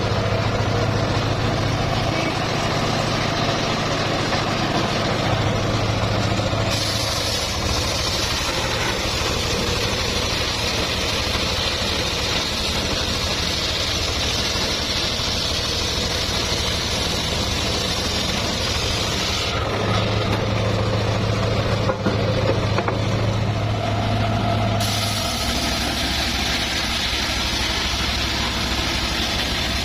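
Homemade engine-driven circular sawmill running steadily with a low engine hum. A higher hissing noise joins for two long stretches, from about a quarter of the way in to about two-thirds, and again near the end.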